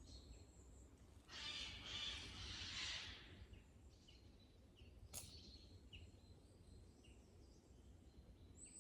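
Near-silent woodland with only a few faint, scattered bird chirps. A soft rustling hiss rises about a second in and lasts about two seconds, and there is a single sharp click about five seconds in.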